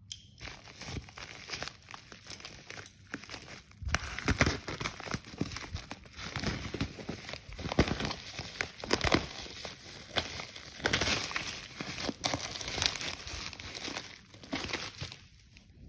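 Crinkling and rustling of a parcel's packaging as it is handled and opened by hand, a dense run of irregular crackles and sharp clicks that eases off near the end.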